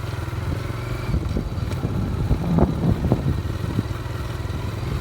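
Motorcycle engine running as the bike rides along, with a few short clattering knocks a little past the middle.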